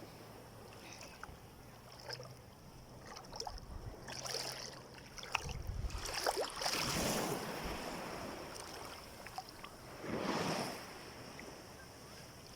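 Shallow sea water washing and splashing, with scattered small clicks and two louder washes, about six and ten seconds in. A low steady hum underlies the first half and stops about five seconds in.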